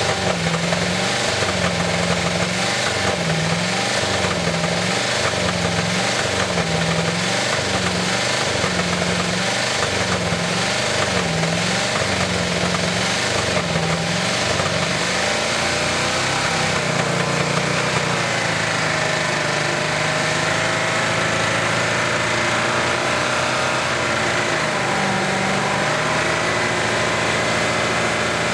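Old truck engine held at high revs, deliberately run to destruction with silicone added to its oil. The note pulses about once a second for the first half, then runs steadier.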